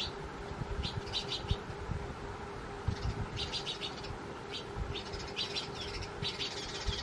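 House sparrows chirping in several quick bursts of short, repeated chirps, over a steady low background rumble.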